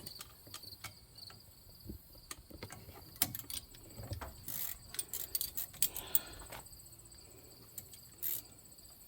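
Irregular metallic clicks and clinks of a wrench working a 15 mm bolt loose on a brake caliper, over a steady high chirring of insects.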